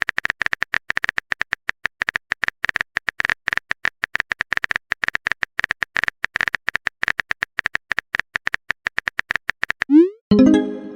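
Rapid, uneven keyboard-typing clicks, a sound effect for a chat message being typed. Near the end they stop and a quick rising swoosh is followed by a short pitched alert tone, like a message being sent or received.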